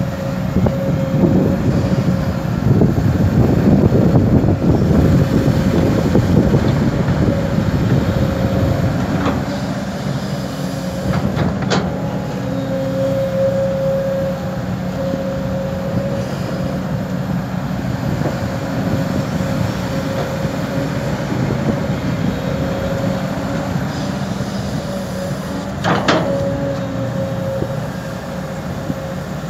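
Kobelco SK200 excavator's diesel engine and hydraulics running under load with a steady whine, working hardest in the first several seconds, then settling. There are two sharp metallic knocks, one near the middle and one near the end.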